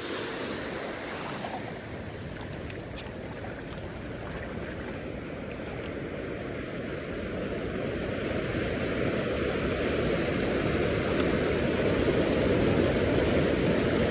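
Sea surf washing on a beach, with wind on the microphone. It is a steady rushing noise that slowly grows louder.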